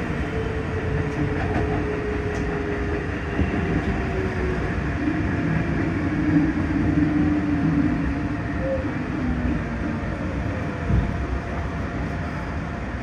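Keikyu 1500 series electric train heard from inside the car, slowing into a station: the hum of its field-chopper-controlled traction motors glides steadily down in pitch over rumbling wheel and rail noise. A single knock comes near the end.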